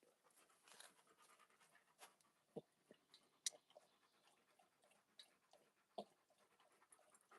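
Near silence, with a few faint scattered clicks and two or three soft knocks.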